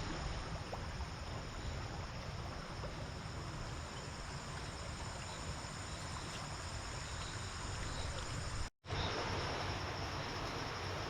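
Night chorus of rainforest insects: a steady, high-pitched ringing over a hiss of background noise and a low rumble. It drops out for a split second about nine seconds in and then carries on.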